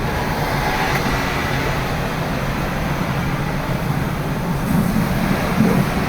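Boeing 787-8 Dreamliner's jet engines running with a steady rumble and rush, with a faint whine in the first second.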